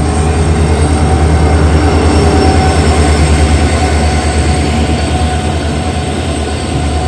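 Diesel locomotive hauling a passenger express at a station, its engine running with a steady, rapidly pulsing low throb, thin steady tones over it.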